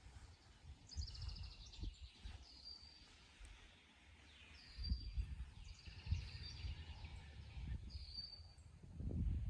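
Outdoor birdsong from several birds: short, high whistled notes repeated every couple of seconds, and quick trilled phrases. An uneven low rumble on the microphone underlies them and grows louder near the end.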